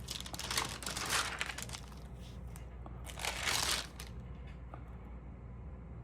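Rustling and crinkling of stamp album pages or stamp sheets being handled and turned, in two bursts: one at the start and a louder one about three seconds in.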